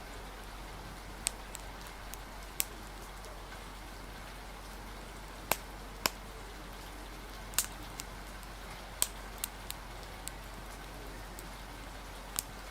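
Rain ambience: a steady hiss of rain with a low steady rumble beneath, and a wood fire crackling in about ten sharp, irregular pops.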